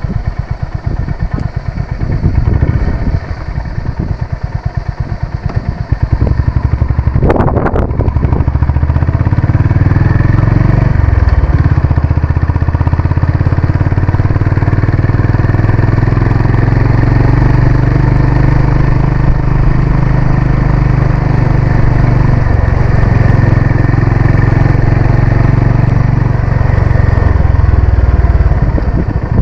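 Honda CB350 RS single-cylinder engine on the move, pulsing at low revs at first, then picking up speed about seven or eight seconds in and running steadily at higher revs, with a few brief dips in the engine note.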